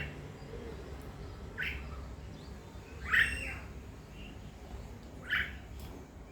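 A pet bird calling: four short calls spread a second or two apart, the third the loudest.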